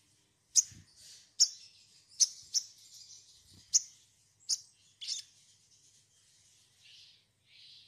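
Sogon (little spiderhunter) giving sharp, high chirps, about seven in the first five seconds at irregular gaps of half a second to a second, then fading to softer, fainter chatter near the end. Two soft low thuds come with the early calls.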